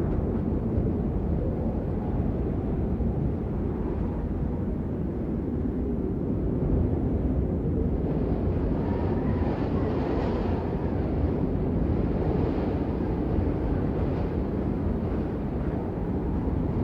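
Steady rain falling: a dense, even hiss weighted toward the low end, with no separate drops standing out.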